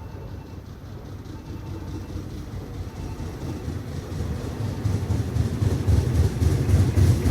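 Electric train on the Tobu Tojo Line approaching the station, its rumble growing steadily louder.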